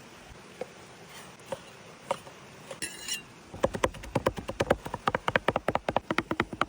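Knife chopping on a wooden cutting board: a few separate chops, then from about halfway a fast, steady run of chops, roughly eight or nine a second.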